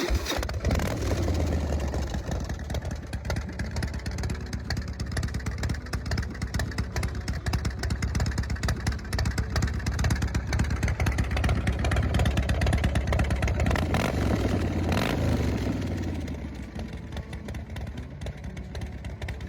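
Harley-Davidson Dyna Wide Glide's V-twin engine running with a steady low rumble. Near the end it revs briefly, the pitch rising and falling, then drops back to a quieter idle.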